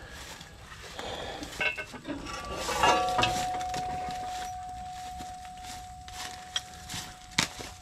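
Metal-on-metal clinks and clanks from farm implement hardware. About three seconds in, a hard strike on steel leaves a single clear ringing tone that fades slowly over several seconds.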